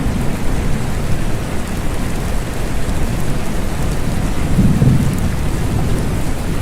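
Steady rain falling, with a low rumble of thunder underneath that swells briefly near the end.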